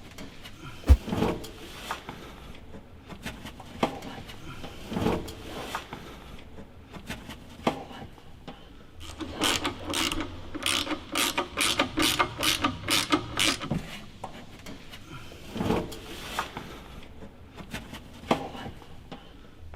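Ratchet spanner clicking in quick runs, the longest a little past the middle, among scattered single knocks, as the exhaust is bolted on.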